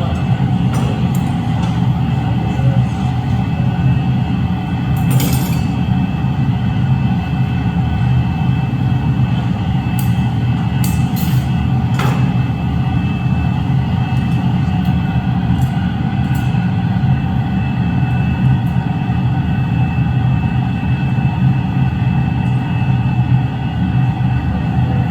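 Murano glass furnace running with a steady low rumble and hum throughout. A few sharp clicks stand out about five seconds in and again around ten to twelve seconds.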